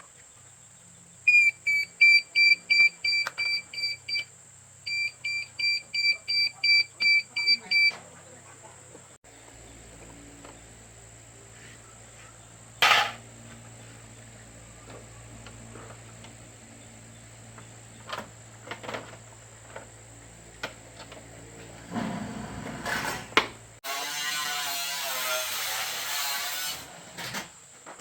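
An electronic beeper sounding two runs of rapid high beeps, about four or five a second. After that comes a low steady hum with scattered clicks, and a short hissing burst near the end.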